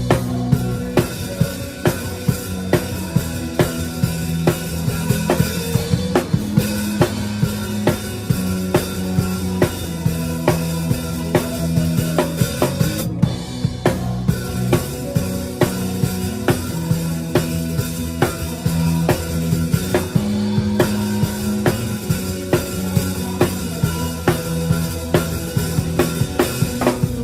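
Drum kit played live in a steady groove, with kick drum, snare and rimshots, along with a band whose sustained bass and keyboard notes carry the song. The cymbals and hi-hat drop out for a moment twice, about halfway through and again some seconds later.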